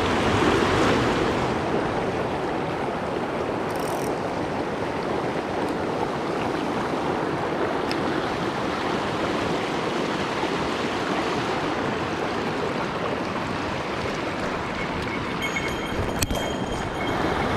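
Mountain stream water running in a steady, even wash, with a single click near the end.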